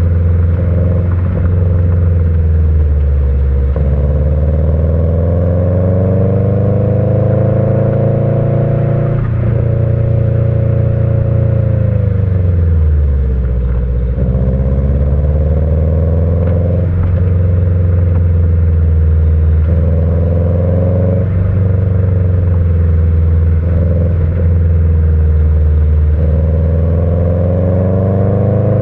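Subaru EJ20 turbo flat-four with unequal-length headers and a Kakimoto Regu.06&R muffler, driven hard through a manual gearbox: the engine note rises under acceleration and drops abruptly at several gear changes, with a longer fall as the car slows around the middle.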